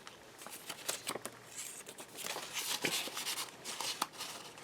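Paper and card stock being handled: irregular soft rustles and light taps as journaling paper and inserts are moved and turned.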